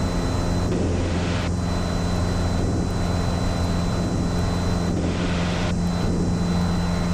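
Piper PA-28 Warrior II's four-cylinder Lycoming engine and propeller running steadily in flight, a constant low drone heard inside the cabin. A thin high tone cuts in and out over it.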